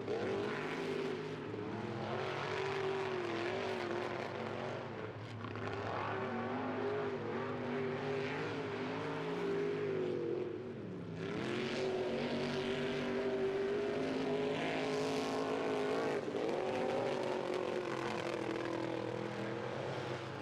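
Off-road race truck's engine revving hard, its pitch rising and falling as the throttle is worked. It eases off briefly about five seconds in and again about eleven seconds in, then picks up again.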